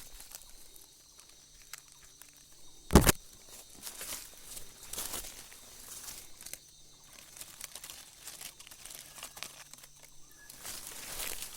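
Footsteps and rustling through dry leaf litter and undergrowth, with scattered crackles, and one loud, sharp knock about three seconds in.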